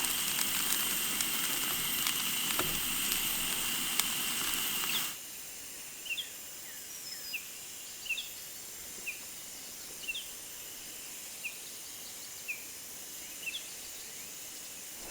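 Steady outdoor hiss with a faint high whine for about five seconds, then a sudden cut to a quieter background where a small bird gives short, high, downward chirps about once a second.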